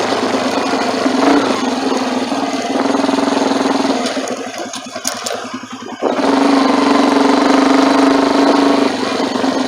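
Motorcycle engine running while riding. About four seconds in the engine eases off for a couple of seconds, then picks up again suddenly and stays steady.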